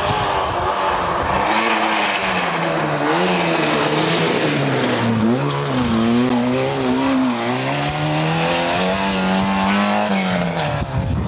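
Rally car engine revving hard at full throttle, its pitch climbing and falling several times as it works through the gears and corners, dipping lowest about five seconds in.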